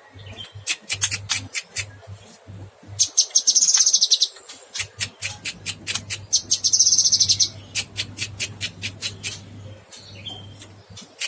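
Cucak kinoy bird singing: a quick run of sharp, high chips, broken by two long buzzy trills about three and six seconds in. A steady low hum runs underneath.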